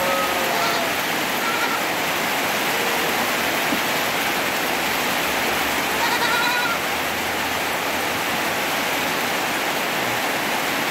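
Heavy rain pouring steadily, with goat kids bleating faintly over it: a few short bleats in the first second or two and another about six seconds in.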